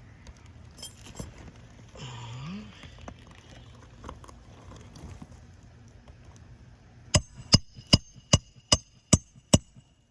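A hammer struck eight times in quick succession, about two and a half blows a second, each blow a sharp metallic strike that leaves a short ringing tone.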